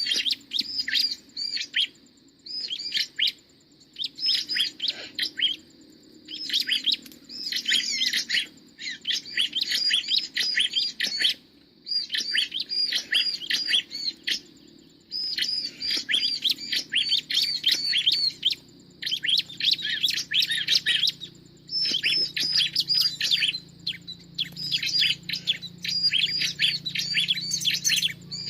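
Ciblek (prinia) singing: rapid, high-pitched chirping phrases in repeated bursts of one to three seconds with short pauses between them.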